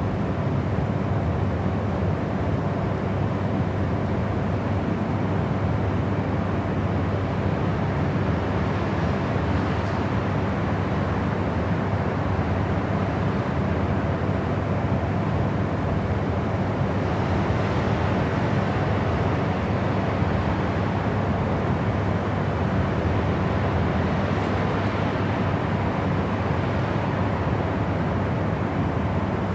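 Steady white-noise sleep sound, an unbroken even rush weighted to the low and middle range with a faint hum in it, and now and then a slight swell of hiss in the treble.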